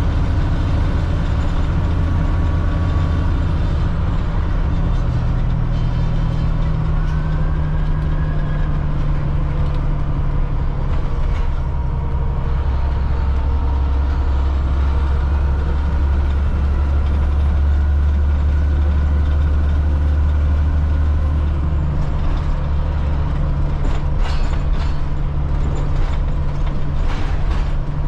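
Cat C7 inline-six diesel engine of a front-engine Blue Bird All American school bus running on the road, heard from the driver's seat. The engine note drops to a lower pitch about halfway through and climbs back up near the end, with a faint high whine above it and a few light clicks near the end.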